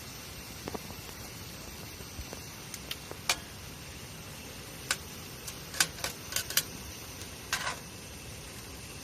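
Wood campfire crackling: irregular sharp pops over a steady low hiss, with a short cluster of pops near the end.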